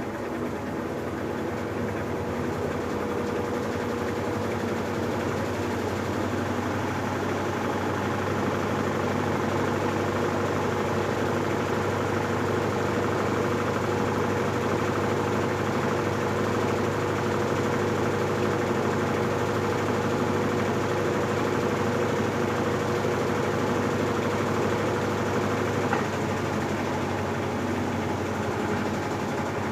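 Electrolux LBU15 top-load washing machine running with a steady motor hum that builds slightly in the first few seconds. A steady whine in the hum stops with a click near the end.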